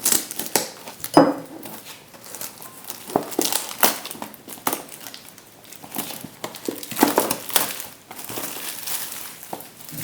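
Packaging of a frozen microwave burger being handled and opened, crinkling and rustling in irregular bursts of crackles.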